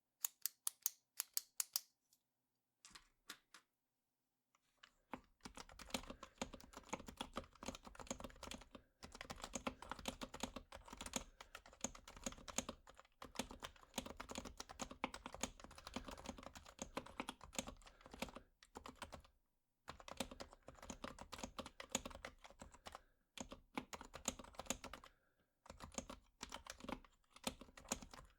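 A run of sharp, bright clicks in the first two seconds, a Bic Clic ballpoint pen used as a volume reference. From about five seconds in comes continuous typing on a stock HHKB Professional Hybrid Type-S with silent 45 g Topre switches, soft muted keystrokes broken by a few brief pauses.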